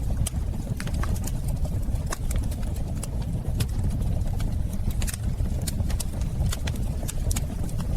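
Wood fire in a fireplace crackling: irregular sharp snaps and pops over a steady low rumble of burning flames.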